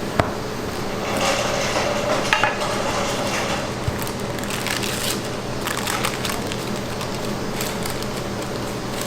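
Food-preparation handling in a kitchen: a sharp click, then crackling and crunching with a few knocks of utensils and containers, over a steady low hum.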